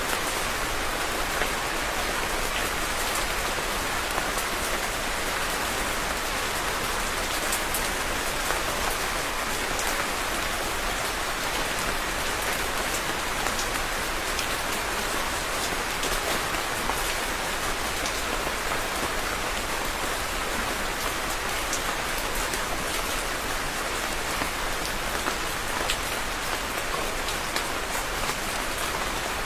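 Steady rain falling on a surface, a constant even hiss dotted with many small, sharp drop impacts.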